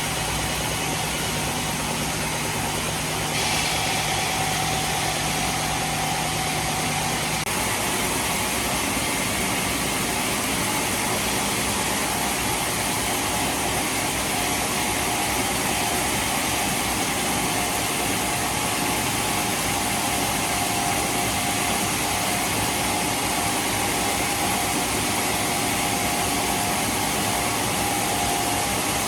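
Heavy machinery running steadily, a dense mechanical din that shifts abruptly about three seconds in and again near seven and a half seconds, with a steady tone underneath from then on.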